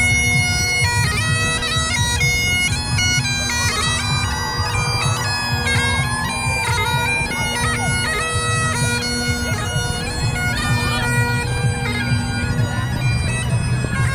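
Bagpipes playing a tune over their steady drone, with a low rumble of background noise beneath.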